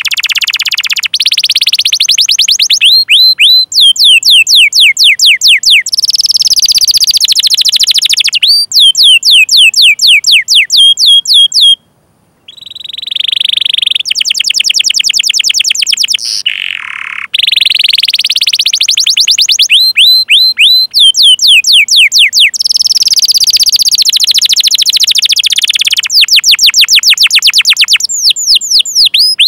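Canary singing: phrases of rapid, evenly repeated downward-sweeping 'cuit cuit' notes alternating with fast rolling trills, with a brief break about twelve seconds in.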